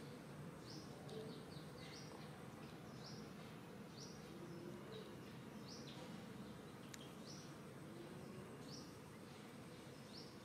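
A bird's short high chirps repeating roughly once a second over a faint steady background hiss.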